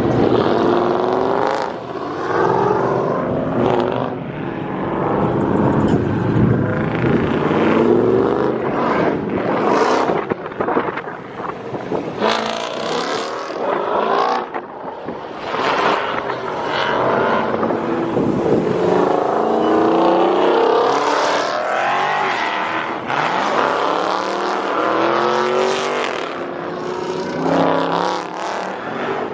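Dodge Charger and Challenger V8 muscle cars revving and accelerating past one after another. Their engine notes rise and fall and overlap as each car goes by.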